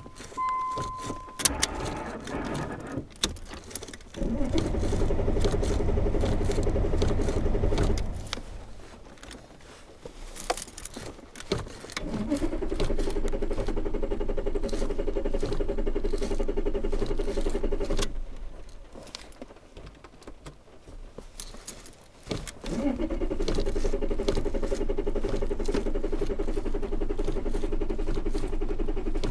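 Ford Probe engine revved and held at steady high revs for several seconds, three times, falling back to a quieter idle between. It opens with a short steady electronic tone and some jangling clicks.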